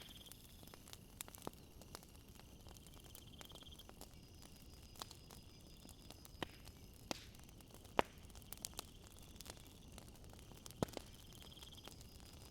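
Wood fire crackling, with scattered sharp pops over a faint steady hiss, the loudest pop about eight seconds in. Night insects trill faintly in the background.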